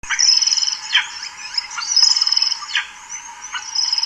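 African hawk eagle calling: short, sharp down-slurred notes about once a second, with fast high trilling in the background.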